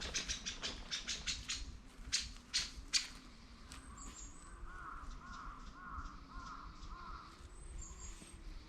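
A quick series of sharp clicks and taps for the first three seconds, then a bird calling over and over in short, evenly spaced arched calls.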